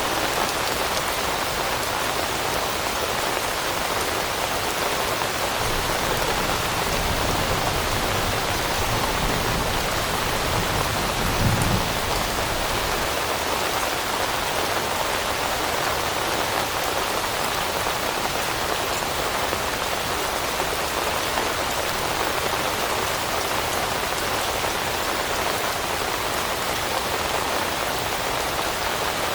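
Steady rain pattering on leaves. A low rumble swells briefly around the middle.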